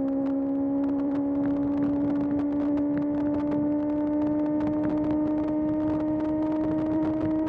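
Kawasaki ZX-6R's inline-four engine pulling steadily under way, its pitch rising slowly and evenly as the revs build, with wind and road noise around it.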